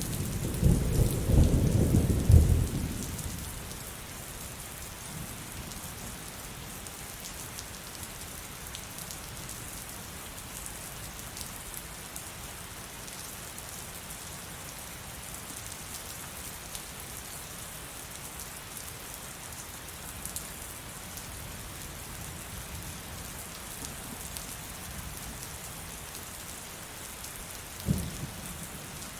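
Heavy, steady rain, with a loud low rumble of thunder for the first three or four seconds. Near the end there is a brief low thump.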